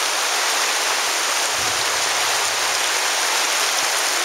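Virgin River's shallow water rushing over rocks: a steady, even hiss of flowing water.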